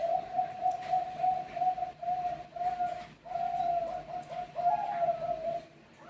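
Zebra dove (Bangkok perkutut) cooing: a long run of short, repeated notes that stops about five and a half seconds in.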